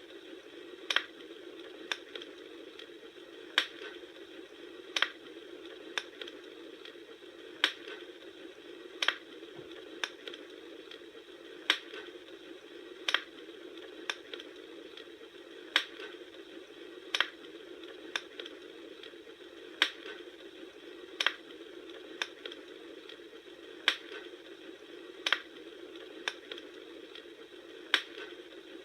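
Bonfire crackling: a steady hiss with sharp pops about every second and a half.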